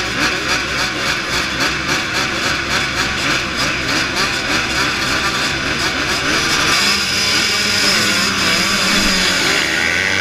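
MX2 motocross bikes racing, several engines revving hard, their pitch rising and falling again and again with each throttle blip and gear change. About six seconds in, one steadier, higher engine note comes to the front.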